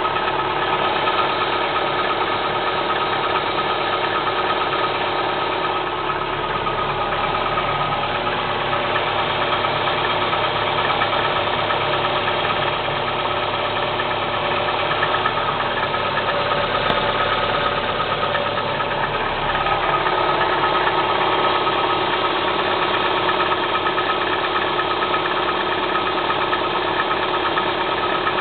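Kia Spectra 1.6 four-cylinder engine idling steadily with a rattling knock, the characteristic tapping clatter this engine makes when cold.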